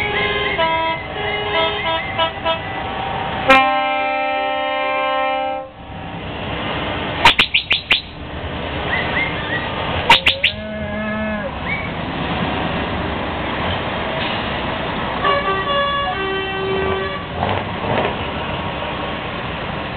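Truck air horns sounding over running diesel engines: one steady chord-like blast of about two seconds a few seconds in, then shorter toots and sharp clicks later on.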